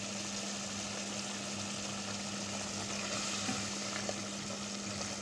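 Chicken and onion-tomato masala sizzling steadily in oil in a pot as it is fried down (bhuna) to dry off its water, with a steady low hum underneath.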